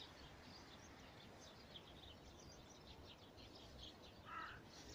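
Near silence: quiet outdoor ambience with faint, scattered bird chirps and one slightly louder short call about four seconds in.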